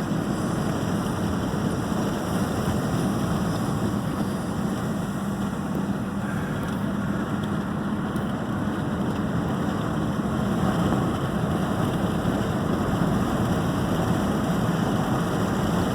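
Car driving up a road under acceleration: steady engine hum and tyre-and-road noise.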